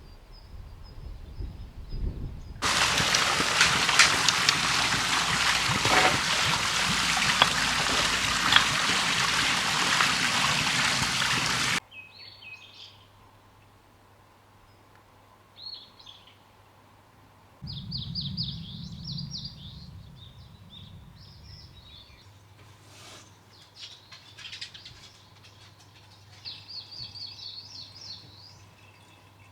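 Small birds chirping in short scattered calls. Before them comes a loud, steady rushing noise lasting about nine seconds that starts and cuts off abruptly.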